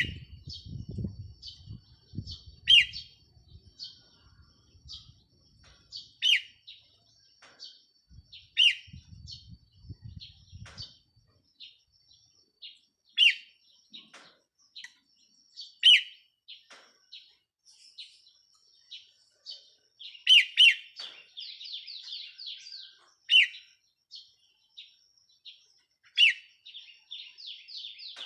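Red-whiskered bulbul, a caged decoy bird, singing: short loud phrases that slide downward, repeated every few seconds, with a quick run of rapid chattering notes in the second half.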